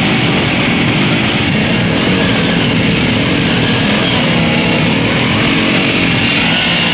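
A vehicle engine running loudly and steadily.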